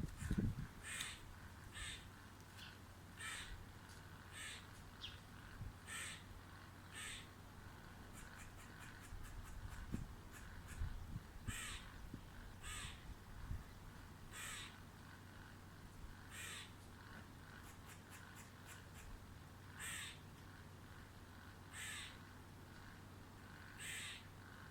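Short bird calls, repeated at irregular intervals every second or two, over a faint steady low hum.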